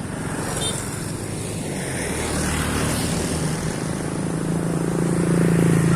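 A train approaching: a steady low engine drone that grows gradually louder.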